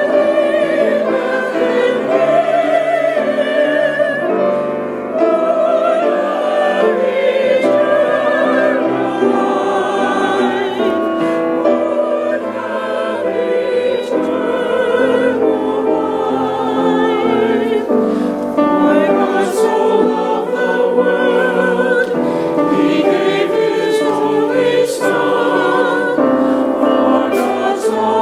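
Church choir singing an anthem in sustained notes with vibrato.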